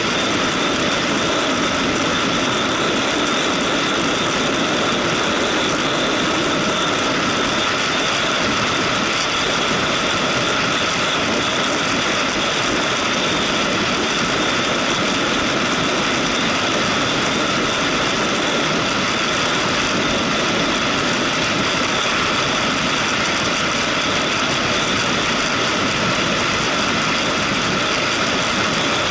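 Motorcycle running at a steady pace, its engine under a constant wash of wind and road noise.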